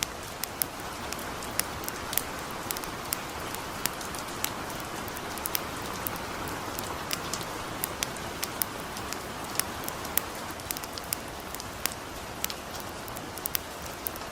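Gentle rain falling steadily as an even hiss, with sharp irregular crackles and pops of a campfire scattered through it, several a second.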